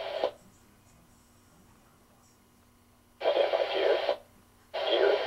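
Air-to-air radio channel: short keyed transmissions, thin and crackly. One cuts off just after the start, and two more of about a second each come near the end, with a faint steady hum between them.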